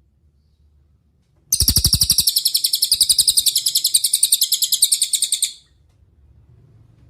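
Cililin songbird singing a fast, high-pitched trill of rapidly repeated notes, about ten a second, starting about a second and a half in and lasting about four seconds.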